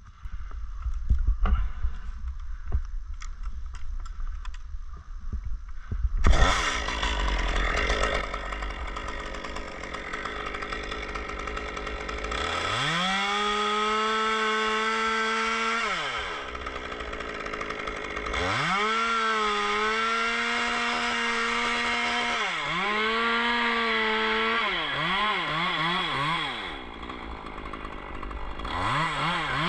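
Gas chainsaw running: a loud start about six seconds in after some knocking, then revved to full throttle in several bursts lasting a few seconds each, with quick throttle blips in the later part.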